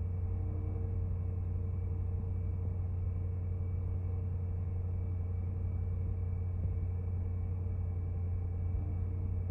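2018 Range Rover's 5.0-litre supercharged V8 idling steadily after a cold start, a constant low hum with no change in revs.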